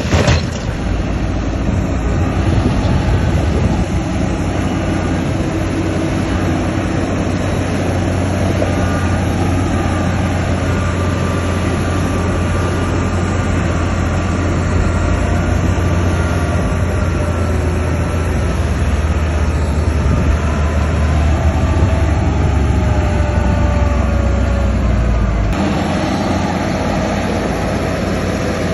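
Bulldozer's diesel engine running steadily with a heavy low rumble. Thin squealing tones drift downward in pitch through the middle, and the sound changes abruptly near the end.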